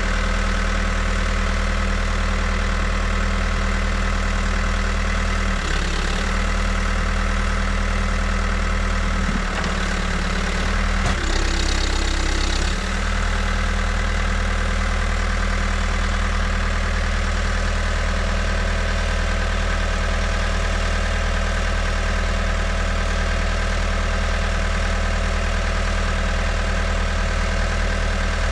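New Holland backhoe loader's diesel engine idling steadily. The engine note shifts briefly about six seconds in and again between about ten and thirteen seconds, with a short hiss near the second change.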